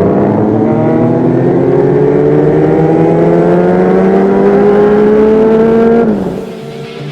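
Honda CBR600RR inline-four with a Leo Vince exhaust accelerating, its engine note rising steadily in pitch, then dropping and quietening sharply about six seconds in.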